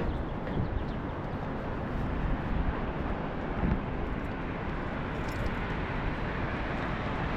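Steady outdoor background noise with a low rumble, as of traffic or wind, and a faint tick about halfway through.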